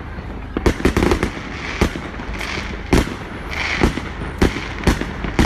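Fireworks going off: a run of sharp bangs, one or two a second, with crackling and hissing between them.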